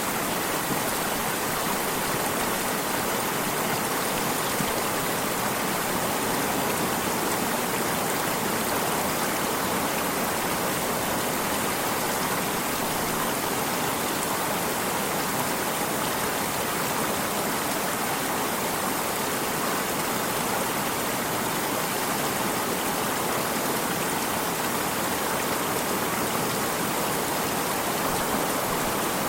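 Water of a stream flowing, a steady, even rush with no change in level.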